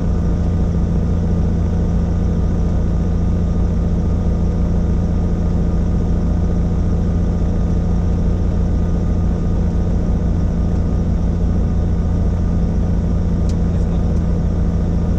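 Helicopter running steadily, a constant heavy drone of turbine and rotor with one strong steady hum.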